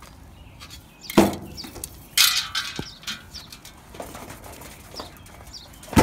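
A bird trapped inside a metal downspout, fluttering and scrabbling against the pipe: a sharp knock about a second in, then a short burst of flapping and scraping, the sound of the bird slipping partway down the pipe.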